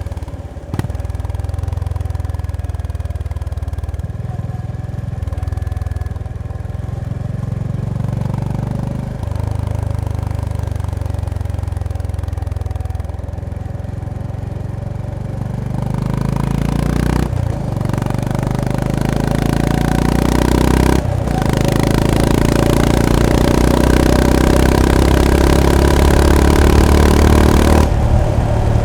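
Honda GB350S (CB350RS) single-cylinder engine running under way, steady at first with a few brief dips. From about halfway it accelerates harder, the engine note climbing through the gears with short breaks at each upshift and growing louder.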